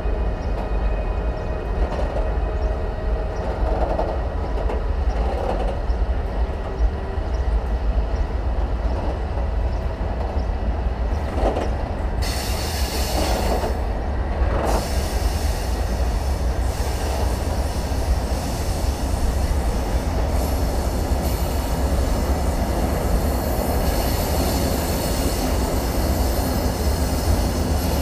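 Long freight train of open-top wagons rolling past close by: a steady rumble of wheels on rails, with some clicks over rail joints. A higher hissing screech of wheel squeal joins about twelve seconds in.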